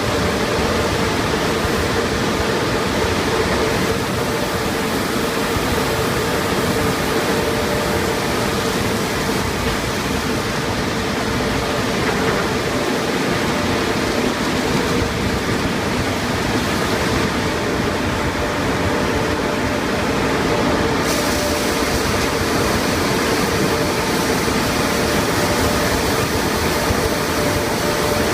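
Conveyor car wash tunnel equipment running: a steady wash of water spray and machinery noise over a constant motor hum. A higher hiss joins in about three-quarters of the way through.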